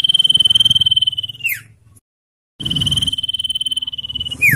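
Common iora giving two long, rapid trills, each held on one high pitch and ending in a quick downward slide. A brief break of dead silence lies between them, and a low rumble runs underneath.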